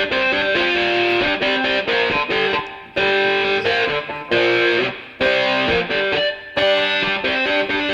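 Music: a distorted electric guitar plays a repeating rock riff in short phrases.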